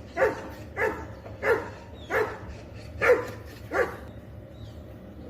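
Labrador retriever barking six times in a steady series, about one and a half barks a second, stopping about four seconds in.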